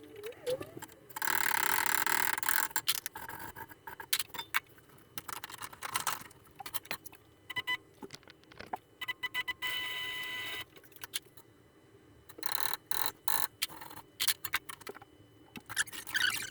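Metalworking on a steel frame: repeated clinks and knocks of steel parts being handled and struck, with a few short stretches of harsher rasping noise about a second long.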